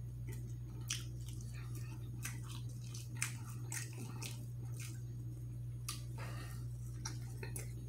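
Close-miked chewing of a deep-fried pizza puff: irregular wet mouth clicks and smacks, with a bite taken near the end.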